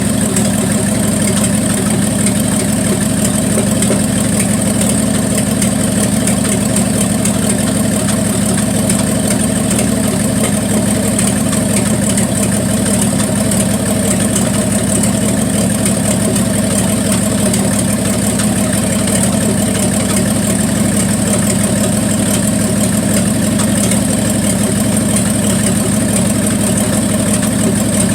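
Plymouth Duster's slant-six engine idling steadily at operating temperature, with a miss in its running that the owner can hear but has not yet traced to a cylinder.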